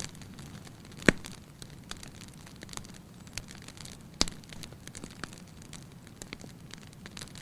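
Fire burning in a fireplace, crackling steadily with scattered small snaps and two louder pops, one about a second in and one about four seconds in.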